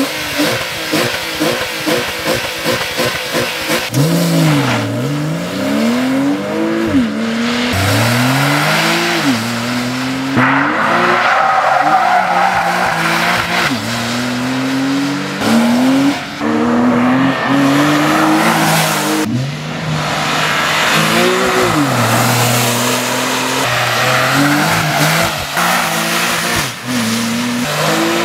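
Porsche 911 (997) Carrera S's 3.8-litre flat-six being driven hard. A quick series of short revs comes first, then repeated climbs up the rev range, the pitch dropping suddenly at each gear change and falling away as the car slows.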